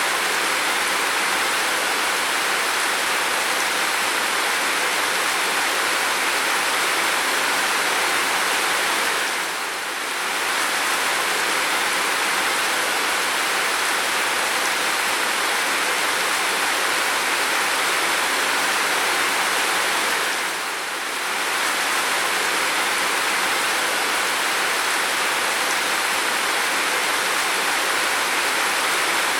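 Steady, heavy rain falling as a continuous even hiss, dipping briefly twice.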